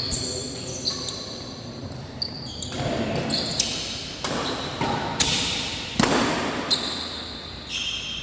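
Badminton rally in an indoor hall: rackets striking the shuttlecock in sharp knocks about once a second, mixed with short high squeaks of shoes on the court floor.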